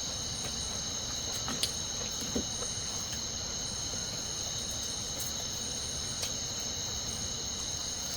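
Chorus of insects, crickets or similar, trilling: a steady high-pitched drone with a faster pulsing trill above it, and a few faint clicks.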